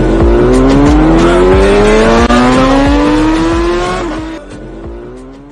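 Superbike engine accelerating hard, its pitch climbing steadily for about four seconds before the sound fades away.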